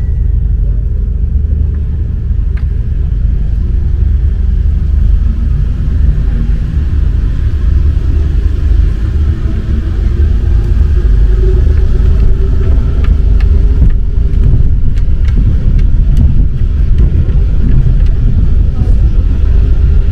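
Rubber-tyred MP 05 metro train running, a loud steady low rumble with a faint whine that rises in pitch around the middle and a few light clicks.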